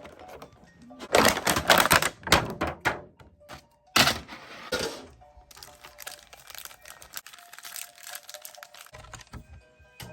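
Unpacking a metal Pokémon card collector tin: a flurry of clattering and crinkling of plastic and cardboard packaging, with a sharp knock about four seconds in, over faint background music.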